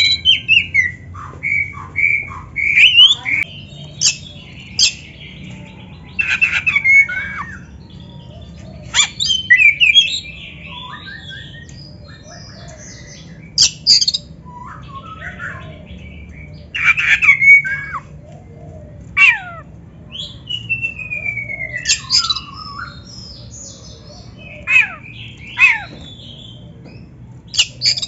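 Oriental magpie-robin (kacer) singing: short, loud phrases of whistled notes, sliding notes and harsh squawky notes, broken by pauses of a second or two, with a long falling whistle about two-thirds of the way through.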